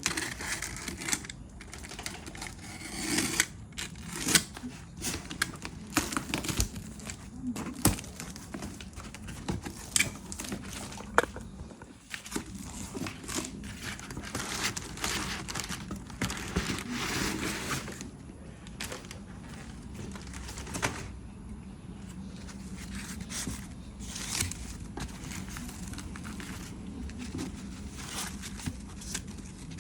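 Packaging being handled and opened: plastic and paper crinkling and tearing, with irregular knocks and clicks.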